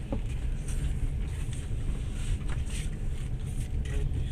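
Passenger train running, heard from inside the carriage: a steady low rumble with light scattered rattles and clatter.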